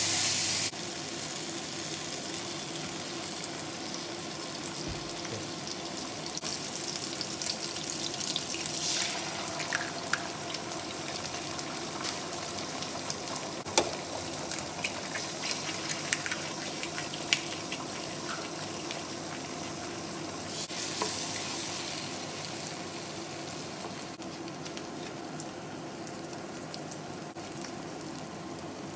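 Crab stick and fishball pieces frying in a nonstick wok: a steady sizzle, with a wooden spatula stirring and scraping through the food and a few sharp taps against the pan.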